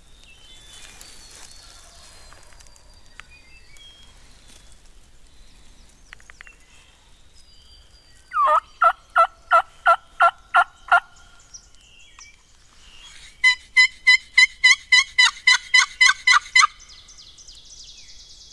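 Wild turkey calling in two runs of evenly spaced yelping notes: a run of about ten near the middle, then a faster, higher run of about seventeen a few seconds later. Faint songbird notes come before them.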